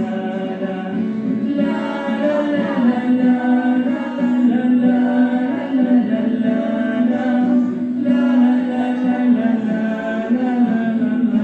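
A group of young children singing a nature song together, holding sustained notes.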